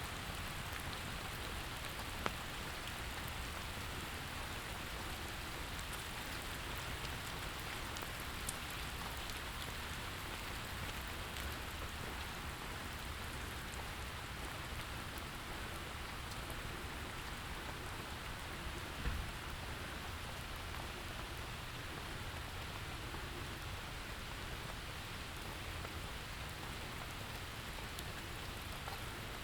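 Steady rain falling on the street and surroundings, an even, dense hiss. A few sharp single taps stand out, about 2, 8 and 19 seconds in.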